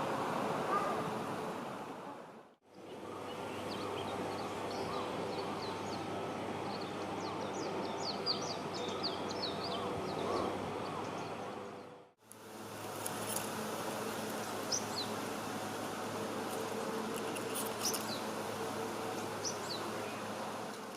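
Outdoor ambience: small birds chirping in quick, high notes over a steady low hum and a background hiss. The sound fades out and back in twice, splitting it into three takes.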